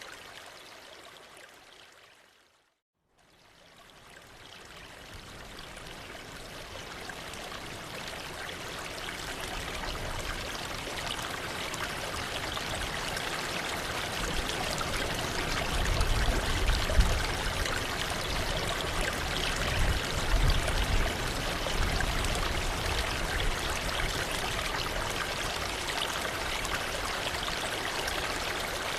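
Waterfall rushing as a steady hiss of falling water. It fades out to silence about three seconds in, then fades gradually back up and holds steady. Low rumbling swells come twice past the middle.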